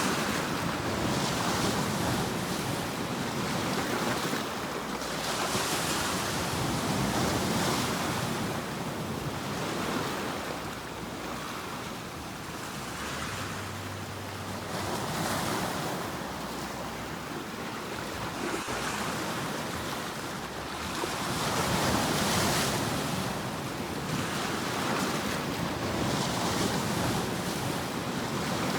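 Sea waves surging and washing on the shore: a continuous rushing surf that swells and eases every few seconds.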